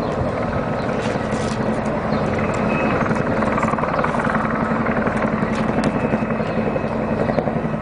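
Military helicopter's rotor and engine running in a steady, continuous drone with rapid blade pulsing.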